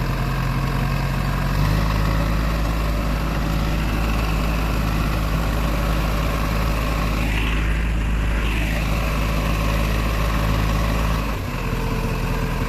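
Tractor diesel engine running steadily at a constant speed; its pitch shifts slightly about a second and a half in and the sound drops a little near the end.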